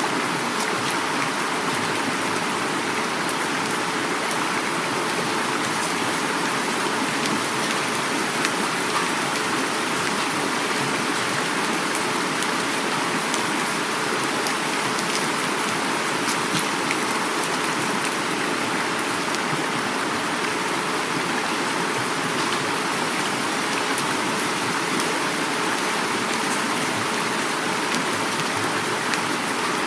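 Heavy rain falling steadily, with the rush of a flowing river underneath and scattered sharp drop ticks.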